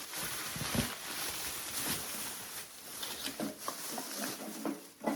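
Rustling, with light clicks and a soft knock about a second in, as small items and their packing are handled.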